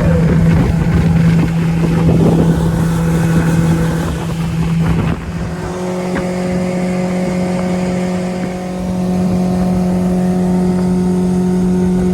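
Boat motor running steadily under way, its pitch stepping slightly higher about five seconds in.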